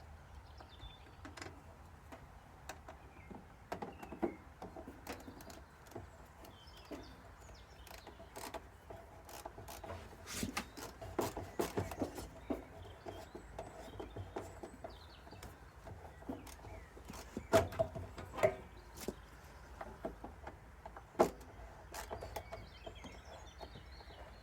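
Irregular clicks, taps and knocks of hand tools and small metal parts being handled during repair work on a tumble dryer's motor and fan, loudest in a few sharp knocks around the middle and near the end. Faint birdsong can be heard behind it.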